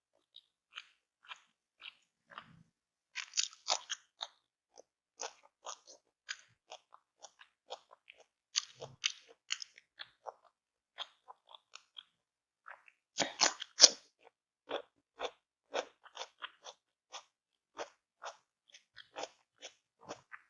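A person biting and chewing crunchy food close to the microphone in irregular crunches, with louder bursts of crunching about three seconds in and again around thirteen seconds.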